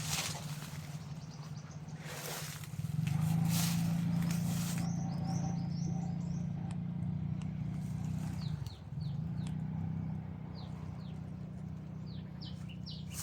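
Small birds chirping outdoors in short, quick, downward-sliding calls, repeated many times from about five seconds in, over a steady low rumble. Early on there are a few brief bursts of hiss.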